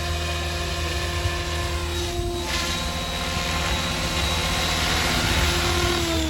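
SAB Goblin 570 electric RC helicopter in flight: a steady whine from the motor and rotor over the rush of the blades. It grows louder a few seconds in, and right at the end the pitch starts to drop.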